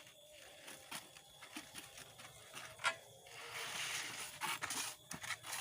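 Scattered light knocks and scraping from a hand clack-valve bailer being worked up and down in a manually drilled well pipe, with a hissing rush about three and a half seconds in.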